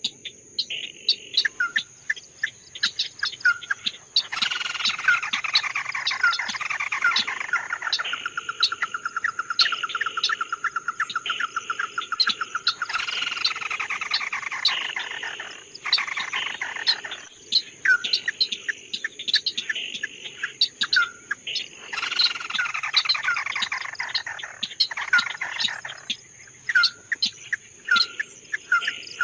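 A songbird singing a loud, varied song: repeated sharp chirps, slurred notes sliding downward, and a fast even trill about eight seconds in, broken by short pauses.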